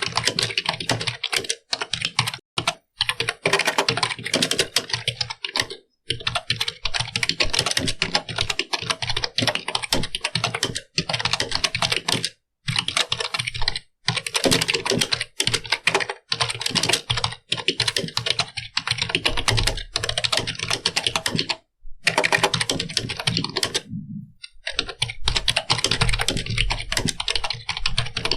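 Computer keyboard being typed on quickly: a dense run of key clicks, broken by short pauses a few times.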